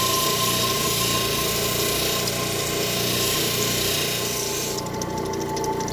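Llanite stone held against the 3000-grit wheel of a running lapidary cabbing machine, giving a steady grinding hiss over the motor's hum. Near the end the hiss stops abruptly as the stone comes off the wheel, leaving the machine running.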